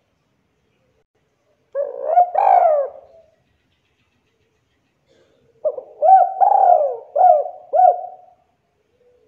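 Spotted dove (tekukur) cooing in two calls. The first comes about two seconds in; the second starts past the middle and runs as a longer string of about five coos, with silence between the calls.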